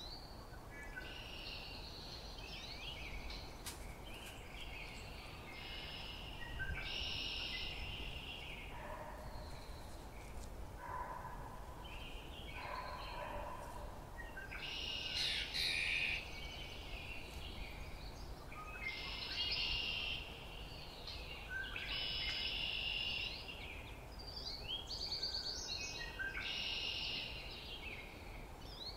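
Songbirds singing, short song phrases repeating every second or two, with a few softer, lower notes in the middle, over a steady low background noise.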